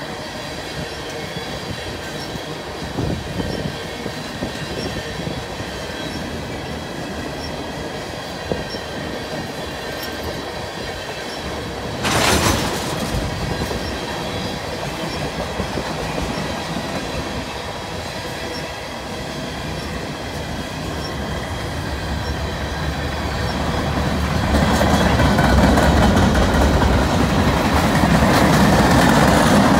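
Freight train cars rolling past close by: a steady rumble and clatter of steel wheels on the rails, with thin steady squeal tones from the wheels. About twelve seconds in there is a brief loud rush of noise, and the rumble grows louder over the last few seconds.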